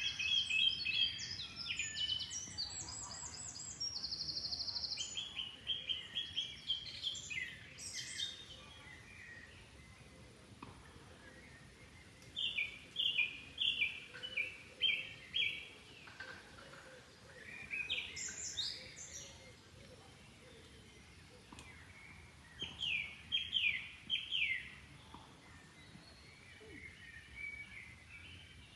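Songbirds singing in phrases of rapid repeated chirps and trills, with pauses of several seconds between phrases, over faint steady flowing water.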